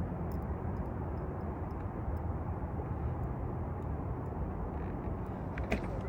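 Steady low background noise with a faint hum and a few light ticks, like outdoor traffic ambience.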